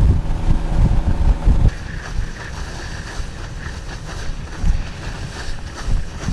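Wind buffeting the microphone while moving fast across the water, over the steady running of a motorboat's engine. The heavy buffeting eases about one and a half seconds in, leaving a lower steady rush.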